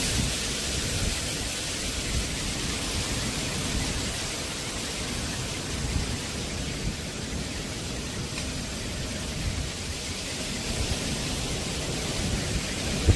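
Steady hiss of rain with an uneven low rumble of wind, and a single sharp thump at the very end.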